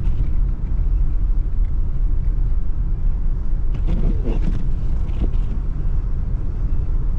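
Steady low rumble of a car driving, engine and road noise heard from inside the cabin. A brief faint voice comes in about four seconds in.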